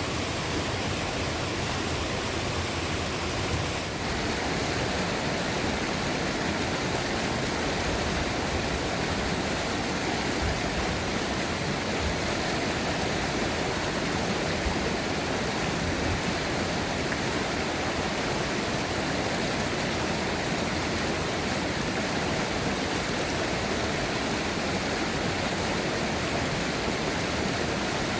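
Fast-flowing river rushing, a steady roar of water.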